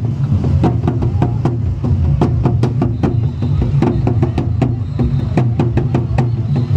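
Percussion music with several sharp strokes a second over a steady low rumble, with some held pitched notes.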